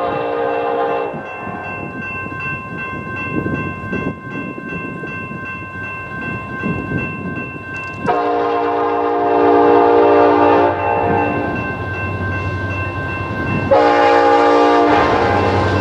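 Union Pacific diesel freight locomotive's multi-note air horn sounding in blasts: one trailing off about a second in, a long blast about 8 seconds in, and a short one near the end, over the steady noise of the moving train.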